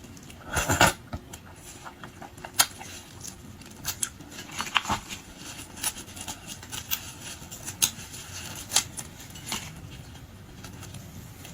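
Eating sounds of shrimp being peeled and chewed: a string of short wet clicks, smacks and crunches, the loudest cluster about half a second to a second in.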